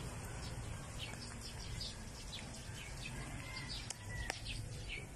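Small birds chirping, with short, high chirps repeating several times a second over a low outdoor rumble. A single sharp click about four seconds in.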